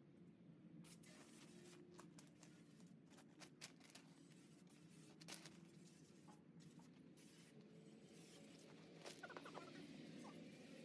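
Near silence: faint low background noise with scattered light clicks and taps.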